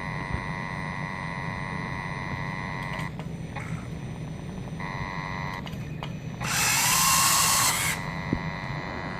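Lionel R-30 model subway train's electric mechanism giving a steady high whine that cuts out for about two seconds and comes back. About two-thirds of the way through, a loud hiss lasts about a second and a half.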